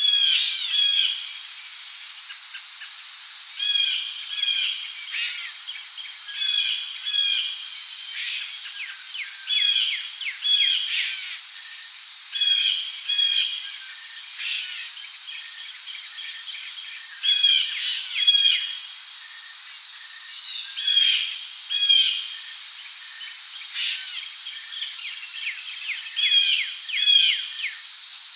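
Tropical rainforest ambience: a steady high-pitched drone of insects, with short bird chirps repeating every second or two, often in quick pairs.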